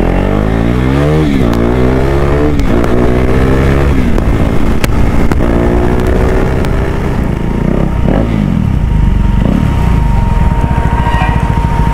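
KTM RC sport bike's single-cylinder engine pulling away and accelerating through the gears, its pitch rising and dropping back at each upshift several times. For the last few seconds it runs lower and steadier as the bike slows.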